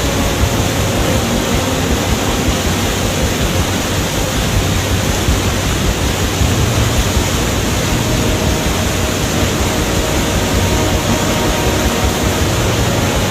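Steady, loud rush of a waterfall, an even wash of water noise with no breaks.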